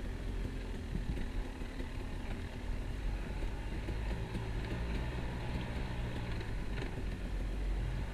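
KTM 250 EXC enduro motorcycle engine running steadily at low speed while riding off-road, with a few light knocks from the bike.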